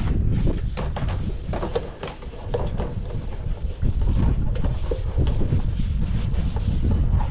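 Wind buffeting the microphone, a heavy uneven rumble, with irregular scattered knocks and clicks.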